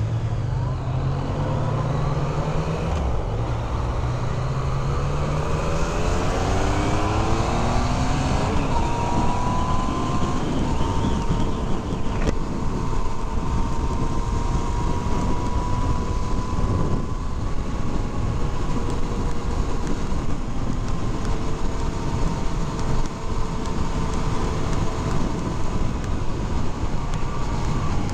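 Yamaha FZ-09's three-cylinder engine accelerating through the gears, its pitch rising in several sweeps over the first eight seconds or so, then running at a steady cruise. Heavy wind rush throughout.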